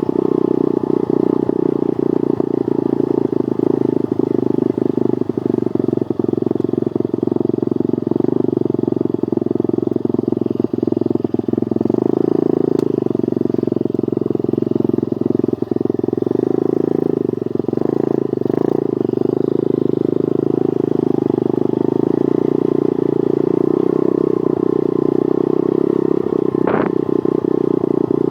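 Pit bike's small single-cylinder engine running steadily as it is ridden, its pitch wavering slightly with the throttle.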